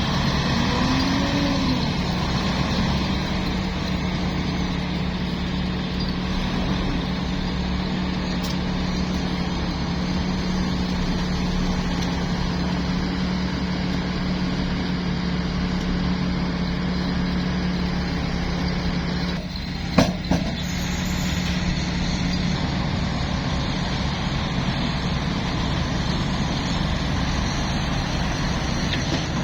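Heavy diesel truck engine running steadily, with a brief sharp sound about twenty seconds in.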